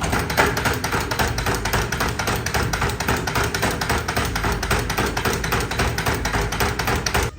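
A factory machine running with a fast, even clatter of metal strokes, many a second, that stops abruptly at the end.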